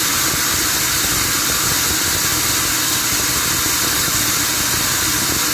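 Sawmill machinery running steadily: a low engine rumble under a strong, even hiss.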